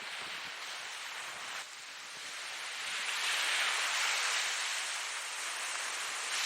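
Ocean surf: a wave washing in, swelling from about two seconds in to its loudest around the middle, then easing, with the next surge starting at the very end.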